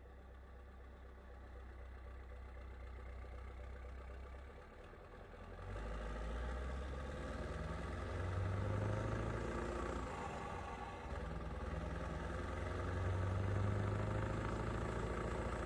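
Scania V8 diesel engine running steadily low, then picking up about five seconds in and swelling louder twice as it is revved or pulls under load.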